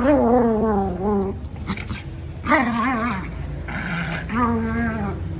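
A dog giving three long, wavering vocal calls, the first sliding down in pitch, with short gaps between them.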